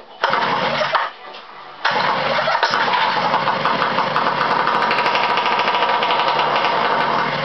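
Two-stroke motorized-bicycle engine, cold, catching for under a second and dying, then firing again about two seconds in and running steadily for several seconds before cutting out. The owner blames the carb's mixture needle for drawing too much fuel and flooding it.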